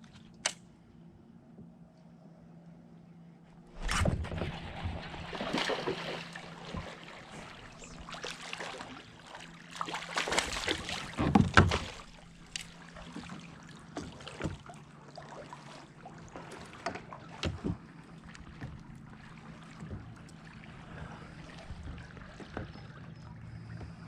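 Water sloshing and splashing against a fishing kayak, with knocks and clatters on the hull. It is loudest about four seconds in and again at around ten to twelve seconds.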